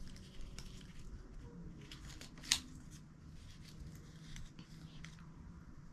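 Faint handling of sticker sheets: small rustles and clicks, with one sharp tick about two and a half seconds in.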